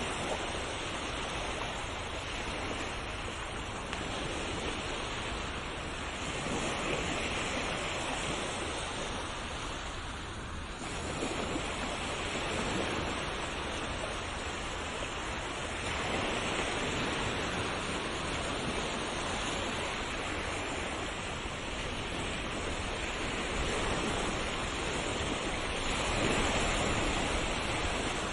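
Ocean waves washing onto a shore in an unbroken hiss of surf, swelling and easing every few seconds as each wave breaks and draws back.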